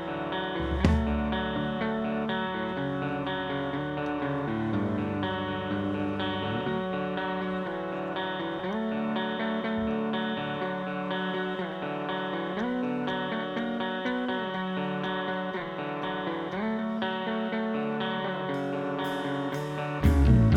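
Instrumental electric guitar with effects, playing sustained ringing chords that change every second or so. Near the end, a run of sharp ticks is followed by a louder full band with drums coming in.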